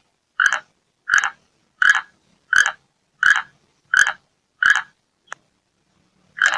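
An animal calling in a regular series of short calls, about three every two seconds, then a brief pause before one more call near the end.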